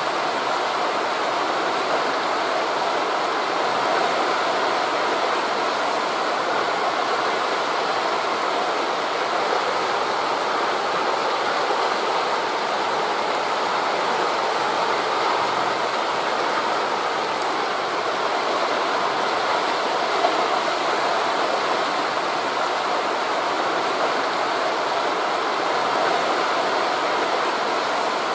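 Steady, even rushing of wind through forest leaves blended with the wash of distant sea waves.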